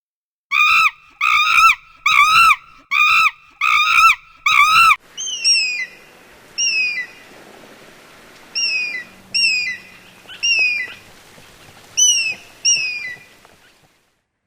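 Bird calls: six loud arched calls, each rising and falling, in quick succession. From about five seconds in, a series of short, high, falling whistled notes follows, most of them in pairs.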